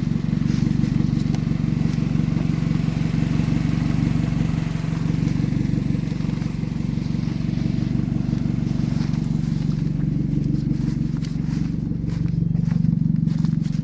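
Mazda Protege's four-cylinder engine idling steadily after being jump-started, a low even running note with a fast, regular pulse.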